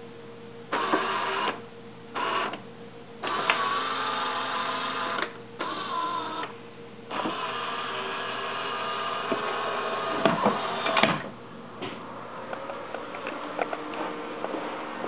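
Small 12 V-driven DC drive motors of a robotic bar fridge's chassis whirring in several short runs and one longer run, starting and stopping as it manoeuvres, with a louder clatter about ten seconds in.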